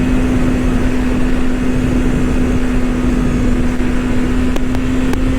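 BMW S1000RR inline-four engine running at a steady, unchanging pitch while the bike cruises, with wind rushing over the microphone. A couple of faint clicks come near the end.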